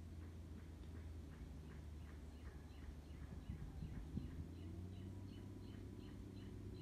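A bird calling in quick repeated short chirps, about three a second, over a steady low hum. A few soft knocks come about three and a half to four seconds in.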